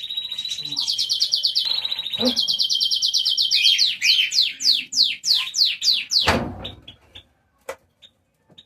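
Caged songbirds singing: fast, high buzzy trills, then a run of quick downward-sliding whistled notes. The song stops about seven seconds in, leaving only a few faint clicks.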